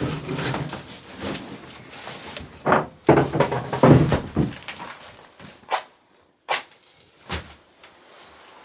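Gear being handled and unpacked: rustling and an irregular run of knocks and clacks as things are moved and set down, thinning out to a few isolated knocks near the end.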